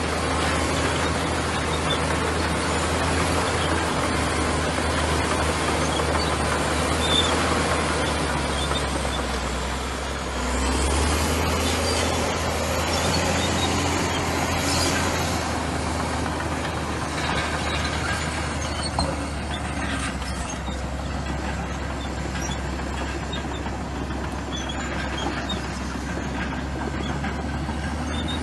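Komatsu bulldozer's diesel engine running under load with a steady low drone; the engine note dips briefly about ten seconds in and then picks up again.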